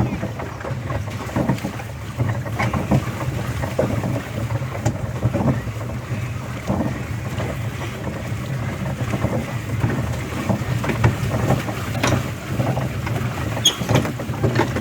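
Small hand-propelled boat on the water: steady wind rumble on the microphone, with irregular knocks and splashes from the boat's handling.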